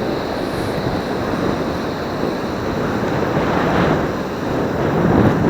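Surf washing up the beach, swelling twice, with wind blowing across the microphone.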